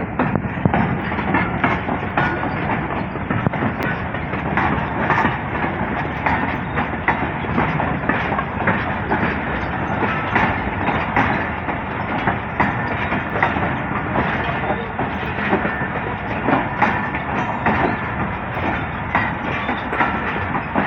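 Goods train's wagons rolling past, wheels clattering and knocking steadily over the rail joints.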